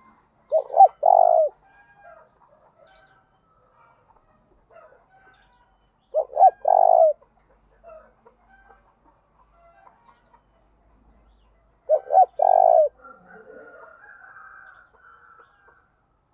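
Spotted dove cooing: three phrases about six seconds apart, each two quick short notes and then a longer note, with faint scattered sounds between them.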